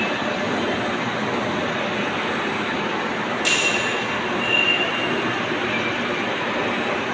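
Lathe headstock gearbox running with a steady, abnormal mechanical noise, from a gearbox fault with the spindle binding tight. A sharp metallic clink with a brief ringing comes about three and a half seconds in.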